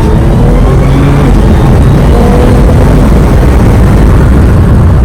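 Ferrari 456's V12 engine running loudly, its pitch sliding down as the revs drop and then holding steady.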